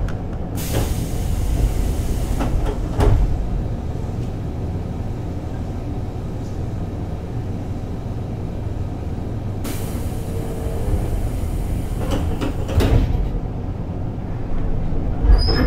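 Keisei 3600 series commuter train heard from inside while running: a steady low rumble of wheels and running gear. A hiss sits over it for most of the first ten seconds, and three short, sharp knocks come about three seconds in, near thirteen seconds and near the end.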